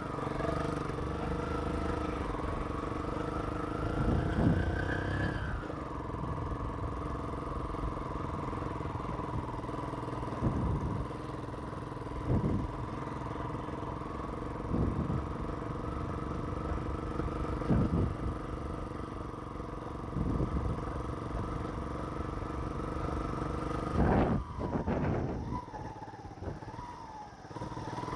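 Motorcycle engine running steadily while riding, rising in pitch briefly about four seconds in and then settling back, with a series of short knocks and clatters.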